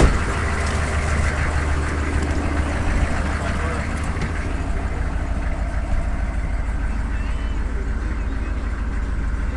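GMC 6.5-litre turbo-diesel V8 running steadily at an even speed.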